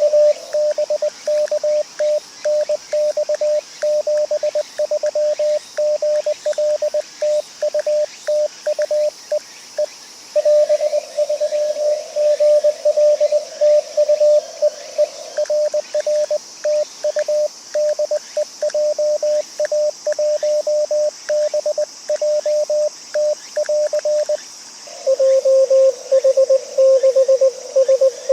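Morse code (CW) from an amateur radio transceiver: a single pitched beep keyed on and off in quick dots and dashes. For the last few seconds the signal continues at a slightly lower pitch.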